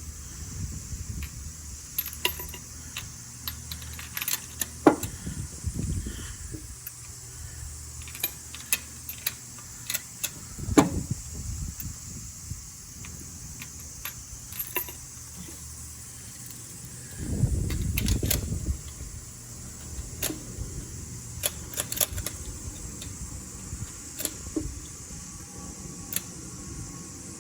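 Metal hand tools and parts clinking and tapping irregularly during spark plug work, with a louder scraping, rumbling stretch of handling about two-thirds of the way through.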